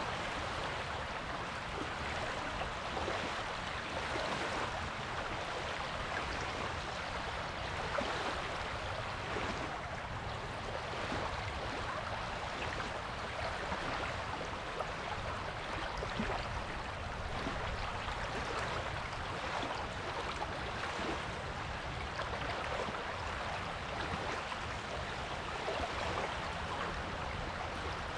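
Waves on a beach: a steady rush of small surf washing on the shore, with gentle swells and no single large break.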